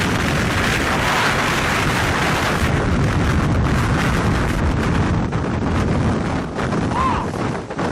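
Strong wind rushing and buffeting the microphone, a steady loud roar with a brief lull near the end.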